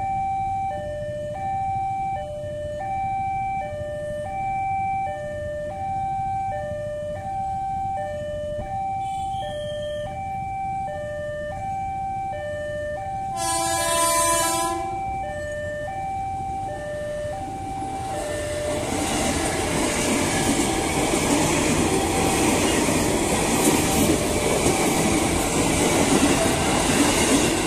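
Level-crossing warning alarm sounding a steady two-tone alternating chime. About halfway through, a train horn blows once for about a second and a half. From about two-thirds of the way in, a JR 205 series electric commuter train passes, its wheels and running gear rumbling on the rails and growing louder toward the end.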